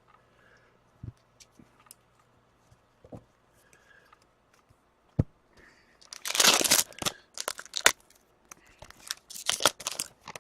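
Foil hockey card pack wrappers crinkling and tearing in two bursts, about six and nine seconds in, with small taps and clicks of cards being handled before them.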